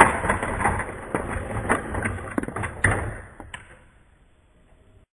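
A string of sharp clicks and knocks over a noisy background, fading away about three and a half seconds in.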